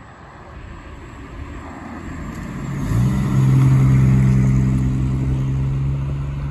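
A motor vehicle's engine running. It grows louder over the first few seconds, then settles into a steady low hum.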